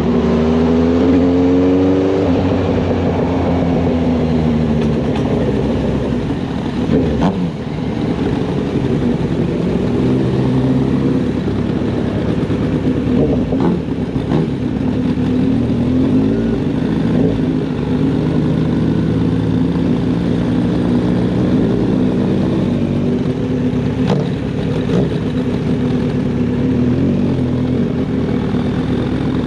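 Kawasaki inline-four motorcycle engine pulling hard and rising in pitch for the first couple of seconds, then running at a fairly steady cruising pace with small changes in throttle.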